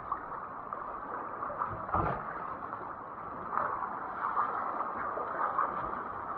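Water splashing and gurgling around a kayak, with a single knock about two seconds in.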